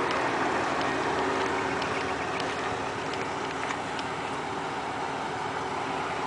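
Ford F-150's 4.9 L inline-six engine running steadily, its exhaust note coming through a Cherry Bomb glasspack muffler.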